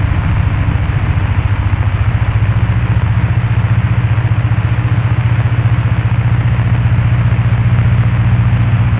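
Cessna 172's piston engine and propeller droning steadily, heard from inside the cabin in flight: a loud, even low hum with a fast regular pulse.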